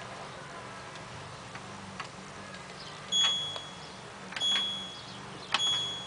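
Washing machine programme dial being turned, each detent giving a click and a short high electronic beep from the control panel. A lone click comes about two seconds in, then three click-beeps about a second apart.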